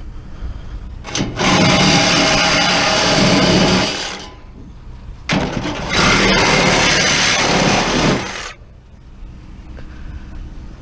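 Power tool cutting through scrap metal in two runs of about three seconds each, starting about a second in and again about five seconds in, with a short pause between.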